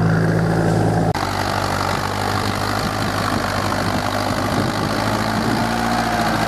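Tractor diesel engine running steadily, with an abrupt cut about a second in to another steady engine sound.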